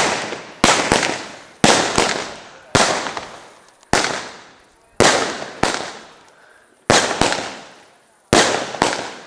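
Fireworks exploding one after another: about ten sharp bangs, mostly about a second apart with a few quicker pairs, each followed by an echo that fades away.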